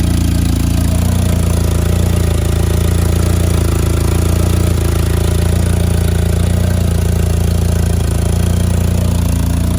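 1984 Volkswagen Rabbit GTI's 1.8-litre inline-four engine running at a steady idle, its note even throughout.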